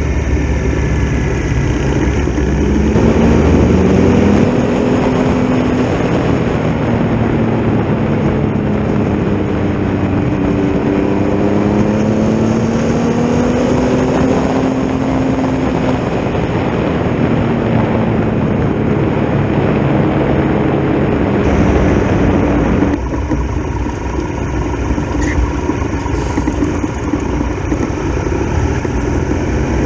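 Triumph Tiger Explorer's three-cylinder engine pulling up through the gears, its pitch climbing and then dropping at each shift, with heavy wind rush on the microphone. About 23 seconds in, the throttle eases off and the wind rush falls away, leaving a lower, steadier engine note.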